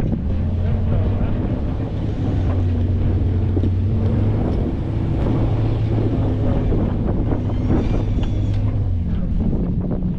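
Truck engine running steadily with a low hum, with scattered knocks and rattles.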